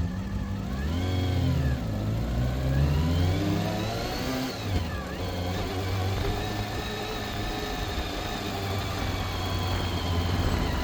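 Honda CBR400RR's inline-four engine under way. It rises and falls in pitch once, then climbs for a few seconds, drops sharply about five seconds in as it shifts gear, and then holds a steady pitch.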